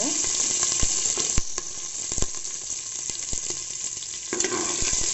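Green chillies and whole spices (cumin, fennel, bay leaf, cinnamon, cloves) sizzling in hot oil in an aluminium pressure cooker: a steady frying hiss with scattered small pops. The sizzle grows louder about four seconds in.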